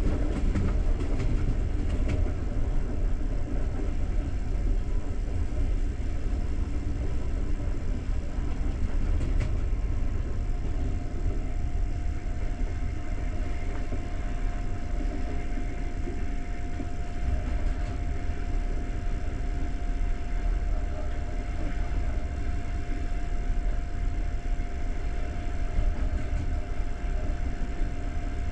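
Steady low rumble of a moving passenger train heard from inside the carriage, with a faint steady whine joining about ten seconds in.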